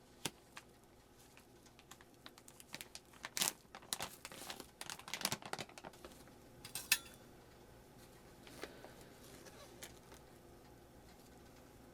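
Hands handling small objects: scattered clicks, light clatter and short rustles, busiest in the middle, over a faint steady hum.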